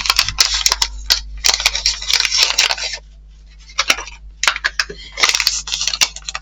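Rustling packaging and light clicks of small model-kit parts being unpacked and set out, in bursts with a short pause about halfway through.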